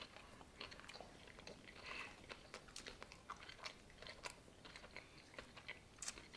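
Faint chewing of a fried chicken sandwich, with many small crunchy clicks from the breading as it is chewed.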